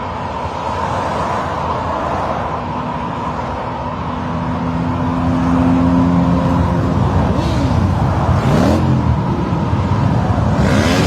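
Motorcycle engines running in a group, growing louder about five seconds in. In the second half, engine notes rise and fall in pitch as bikes rev and pass by.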